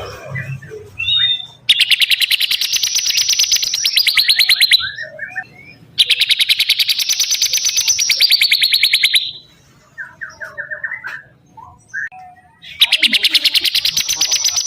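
Bar-winged prinia (ciblek) singing: three long, rapid trills of quickly repeated high notes, each about three seconds and dropping slightly in pitch at the end, with short chirps in between.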